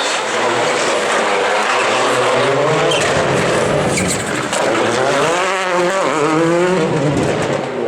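Rally car engine running at high revs, its pitch dropping about halfway through and then climbing again, with a few sharp pops.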